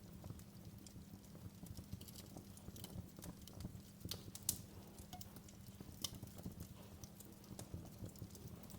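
Wood fire crackling in a fireplace: irregular sharp snaps and pops over a low steady rumble, with one loud pop about halfway through.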